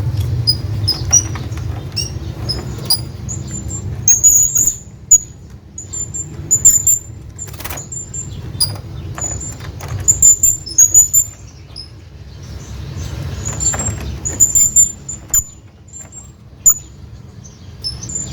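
Hanging parrot giving short, very high-pitched squeaky calls over and over at irregular intervals, calling to another bird. Sharp clicks come in here and there over a steady low rumble.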